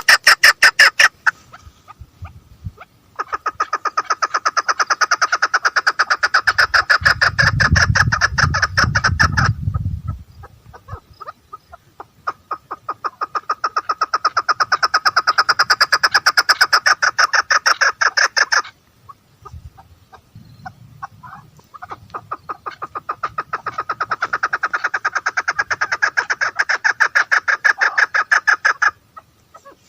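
Female chukar partridge calling in three long bouts of rapid, repeated clucking notes, each bout lasting several seconds with short pauses between.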